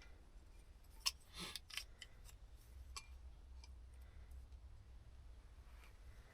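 A few faint, sharp clicks and taps of hand tools on metal, the clearest about a second in and a couple more soon after, over a low steady hum.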